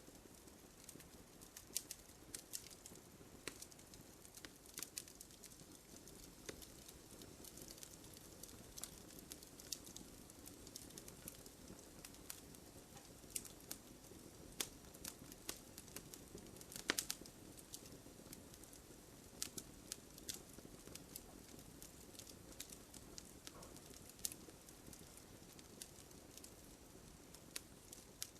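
Campfire of burning wood crackling quietly: a soft hiss under frequent small irregular snaps and pops, a few louder ones scattered through.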